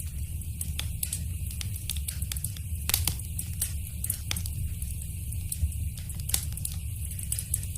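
Wood fire crackling in a fireplace: a steady low rumble of the flames with frequent sharp pops and snaps, the loudest about three seconds in and again a little after six.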